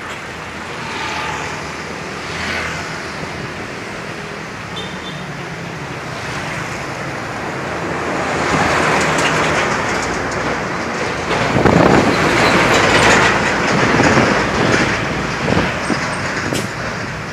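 Road traffic with trucks driving past. A heavy vehicle comes close from about halfway through, the loudest part, and fades slightly near the end.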